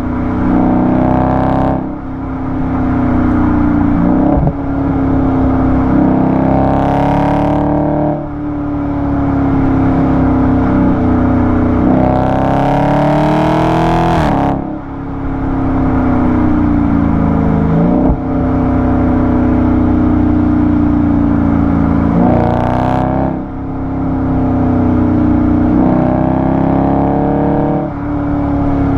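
Dodge Charger 392 Daytona's 6.4-litre Hemi V8 exhaust, close-miked at the tailpipe, pulling through the gears. The engine note climbs and falls, with a quick dip at each gear change, and gets harsher under the hardest pull shortly before the middle.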